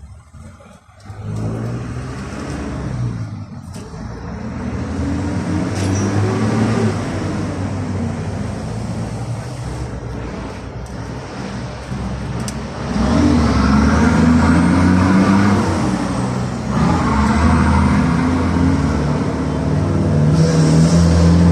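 A car engine starts running about a second in. Its pitch rises and falls as it revs or accelerates, and it grows louder partway through.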